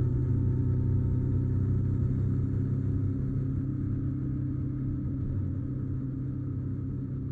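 Honda NC750X's parallel-twin engine running steadily at cruising speed, with road and wind noise, slowly getting quieter.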